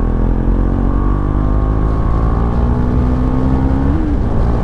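KTM Duke 390's single-cylinder engine pulling under acceleration, its note rising slowly and steadily, with a short blip about four seconds in before it settles. Heard from inside a closed helmet through a lavalier mic, with some low wind rush.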